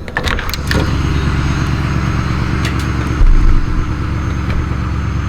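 Vehicle engine running steadily at idle, with a few sharp clicks and knocks in the first second and a low thump about three seconds in.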